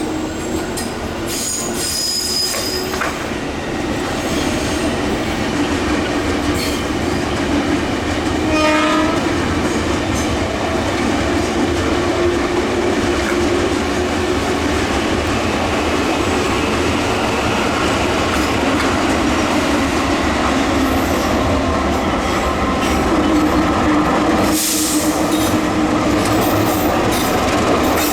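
Diesel-hauled passenger train running past close by, a loud continuous rumble of locomotive and wheels on rails, with the horn sounding.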